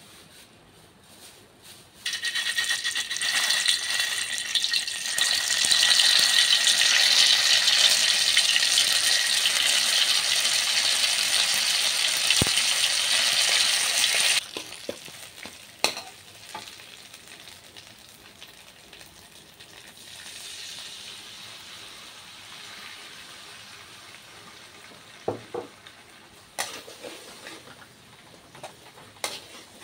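Food hitting hot oil in a pan starts a loud sizzle about two seconds in; it goes on for about twelve seconds and then stops abruptly. Afterwards there is a quieter frying sizzle with a few sharp clicks and scrapes of a metal spatula against the pan as the mixture is stirred.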